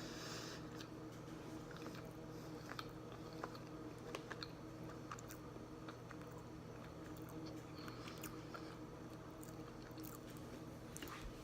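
A person chewing a salted caramel protein bar close to the microphone: faint, irregular mouth clicks and chewing sounds over a steady low hum.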